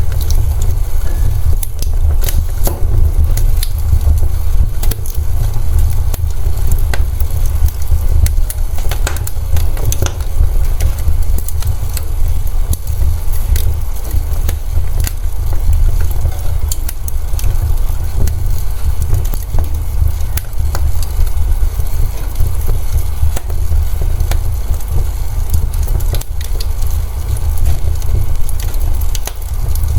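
Wood fire in a fireplace crackling, with many sharp pops and snaps scattered irregularly over a steady low rumble.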